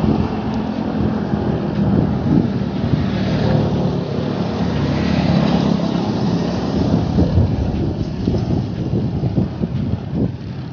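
Wind buffeting the microphone of a camera on a moving bicycle, with road traffic running alongside and a vehicle engine's steady hum in the first half.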